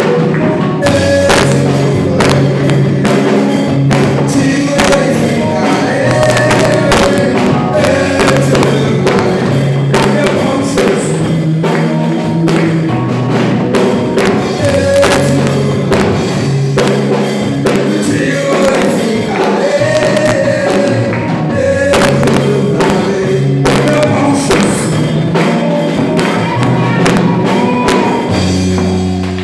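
Live gospel worship music: singing over a band with a steady beat and a bass line.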